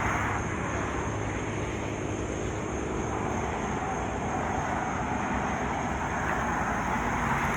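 Steady highway traffic noise: the rush of passing vehicles and their tyres, swelling as one goes by at the start and another near the end, over a low steady hum.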